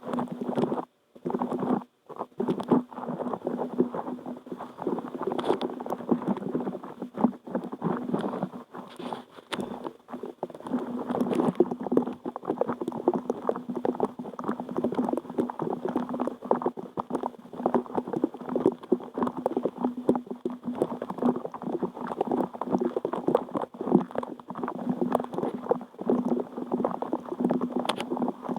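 Water bubbling in a dense, continuous run of small pops, with a steady low hum underneath and a brief break about a second in.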